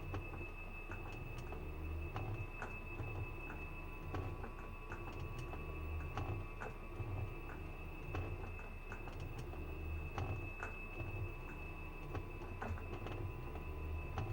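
Washing machine spinning: a low throb repeating a little faster than once a second, under a steady high whine and scattered light ticks.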